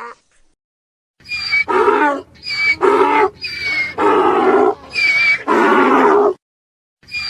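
A large animal calling over and over in paired calls, each a short high call followed by a longer, harsher, lower one, about four times in a row, stopping abruptly.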